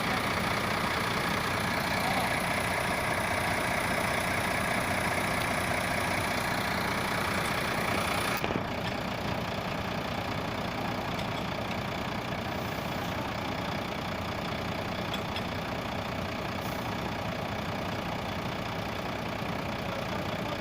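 Truck engine running steadily at idle. About eight seconds in the high hiss drops away and it becomes a little quieter.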